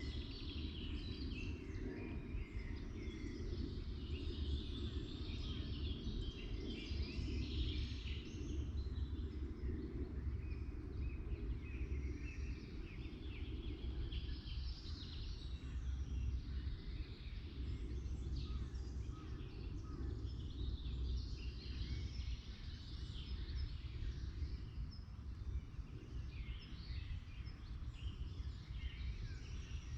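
Several songbirds chirping and singing in a forest, short scattered calls throughout, over a steady low rumble.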